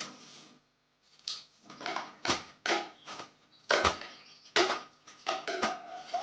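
A string of about ten sharp knocks and clatters from household objects being handled and set down, after a brief pause about a second in.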